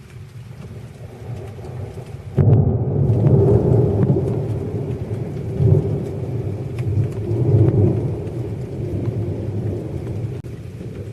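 Thunder: a sudden clap about two seconds in, then a deep rumble that rolls on in swells for about eight seconds before dying away near the end. Steady rain runs underneath, with scattered drop ticks.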